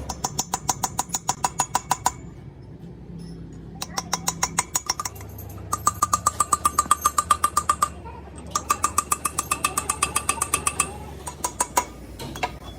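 Rapid metallic tapping in runs of a second or two, about ten strikes a second, each strike ringing at the same pitch. It sounds like a metal part being struck over and over, pausing and starting again several times.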